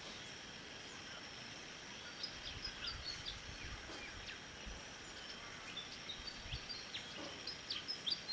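Rural outdoor ambience: small birds chirping in scattered clusters of short high notes over a steady background hiss, with a few brief low rumbles.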